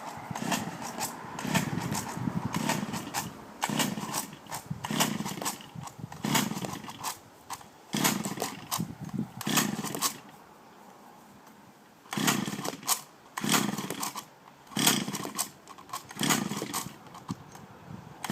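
Stihl FS 420 brushcutter's two-stroke engine being cranked by pulls on its recoil starter, a short burst of turning over and popping with each pull, over and over without settling into a run. The cranking pauses for about two seconds partway through. It is a hard start after the engine has sat unused for a while.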